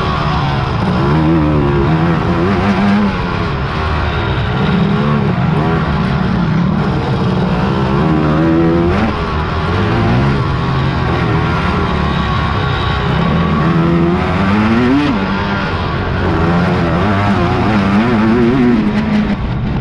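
Several big quad (ATV) engines racing off-road, overlapping, their pitch repeatedly rising and falling as the riders throttle up and back off.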